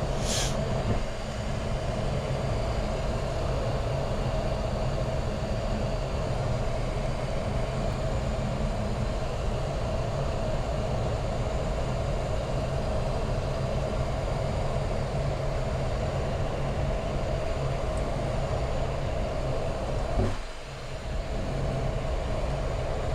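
Steady cockpit noise of a Boeing 737 MAX 8 taxiing with its CFM LEAP-1B engines at idle during their warm-up before takeoff: a constant rumble and air-conditioning hiss with a steady mid-pitched hum. The noise dips briefly about twenty seconds in.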